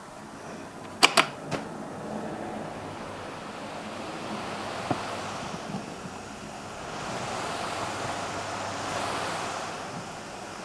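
Strong gusty wind heard through a Rode NTG2 shotgun microphone in a full windshield with furry 'dead cat' cover: a soft rushing that swells and eases with the gusts. There are three sharp clicks about a second in.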